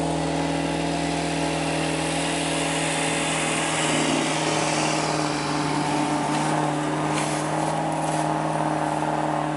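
An engine idling steadily close by, its pitch unchanging, while a Suzuki Grand Vitara SUV drives past through deep snow. The passing engine and tyres are loudest about three to four seconds in, then fade as it pulls away.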